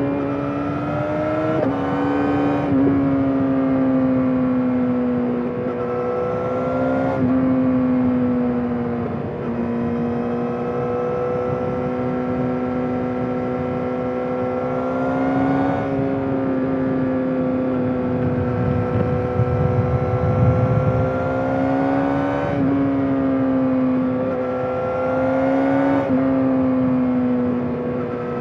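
Yamaha YZF-R6's 599 cc inline-four engine with an SC-Project exhaust, running at steady high revs while riding. Its pitch sags slowly and then climbs again sharply about six times as the throttle is opened.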